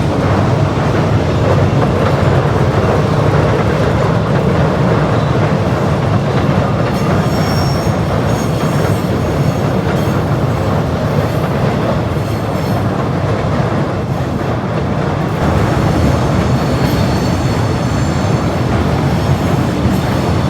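Electric suburban train running along the rails with a steady rumble. High-pitched wheel squeal comes in twice: once about a third of the way through, and again past the three-quarter mark.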